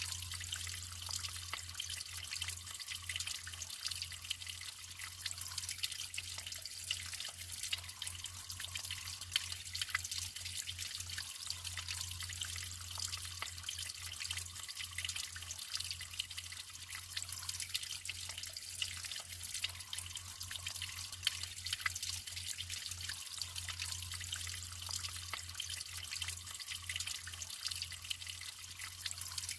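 Naturally flowing water trickling and splashing steadily, with many small drips and splashes.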